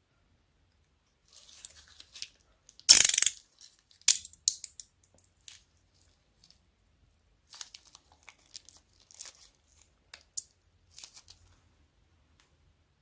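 Slime and plastic bags being handled, with short crackling and crinkling sounds and one loud tearing sound about three seconds in.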